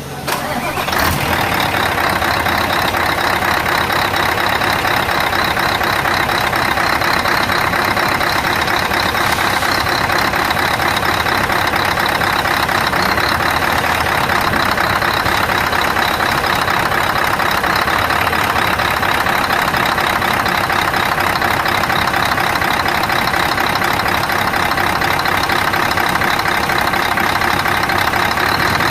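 Scania R580's 16-litre V8 diesel engine running steadily, a crisp sound; it rises over the first second and then holds even.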